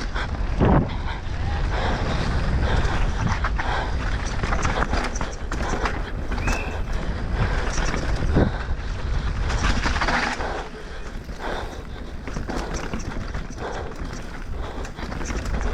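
Downhill mountain bike ridden fast over rough trail: a steady rush of wind on the microphone with frequent knocks and rattles from the bike over the bumps, easing a little about ten seconds in.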